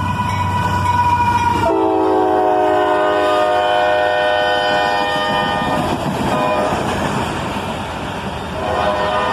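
Freight locomotive horn sounding a multi-note chord over the rumble of a passing train. The chord's notes slide down in pitch as the lead locomotive goes by, then hold steady. The horn fades out and sounds again near the end.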